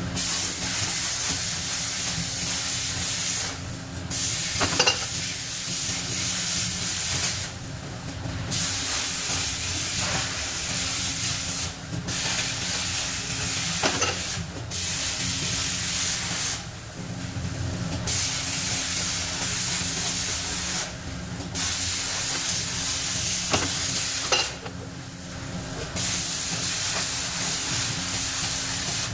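Compressed air hissing from a nozzle in long bursts of a few seconds, with short breaks between them, over a steady low hum.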